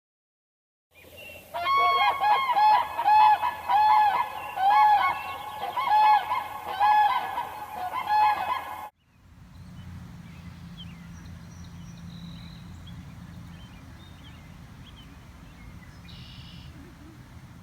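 Geese honking: a run of loud, repeated honks lasting about seven seconds that stops suddenly, followed by quiet outdoor background with faint bird chirps.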